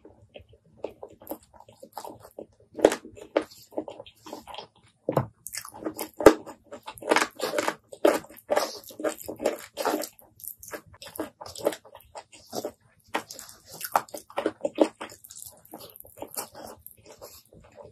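Close-miked wet chewing and lip smacking of someone eating saucy rice by hand, a rapid, irregular run of sharp smacks, clicks and squelches.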